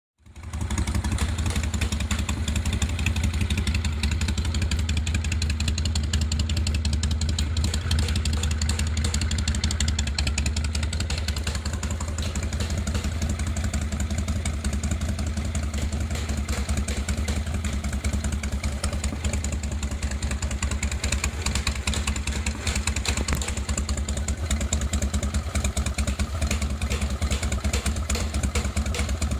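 1999 Harley-Davidson Fat Boy's Evolution V-twin idling through a Thunder Header exhaust, a steady deep exhaust note with the loping three-beat idle rhythm.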